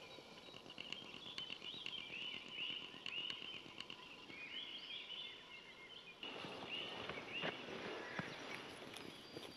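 Songbirds singing in a dawn chorus, many short chirps and warbles over one another. About six seconds in the background noise steps up and a few soft clicks come in.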